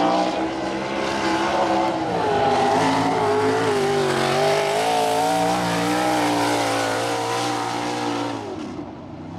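Sprint car V8 engine at racing speed on a dirt oval qualifying lap, its pitch dropping and rising as the driver lifts and gets back on the throttle through the turns, then fading away quickly near the end.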